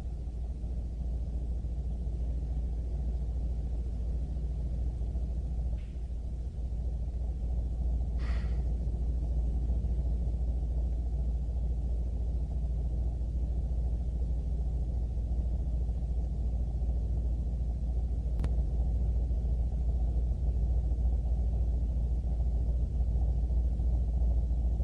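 A steady low rumble, with a few faint single ticks over it.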